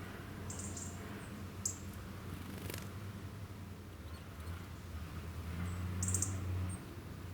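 Small wild birds giving short, high-pitched chirps, a few times with gaps between, over a steady low hum.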